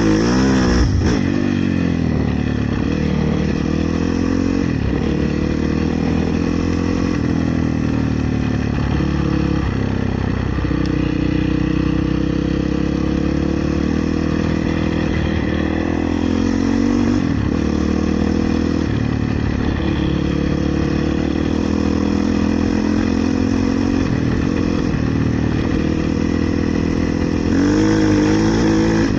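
450cc enduro/motocross motorcycle engine being ridden, its pitch rising and falling over and over as the throttle is opened and closed through the gears.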